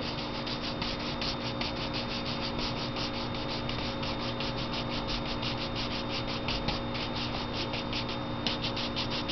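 Large mop brush scrubbed quickly back and forth over watercolor paper, blending wet paint: an even run of short rasping strokes, about five a second, pausing briefly near the end.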